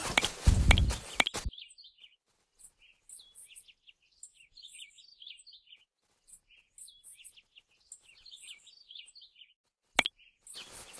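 Small birds chirping, a long run of short high chirps over near silence. Before them, a loud burst of noise with low thumps cuts off abruptly, and a single sharp click comes near the end.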